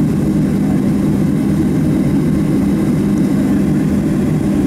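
Steady low drone heard inside the cabin of a Boeing 737-700, from its running jet engines and cabin air system, with a constant low hum and no change in pitch.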